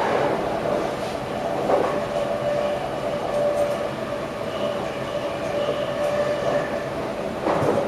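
Electric passenger train running at speed, heard from inside the driver's cab: a steady rumble with a held whine from the drive, and a few sharp knocks as the wheels pass over rail joints or points.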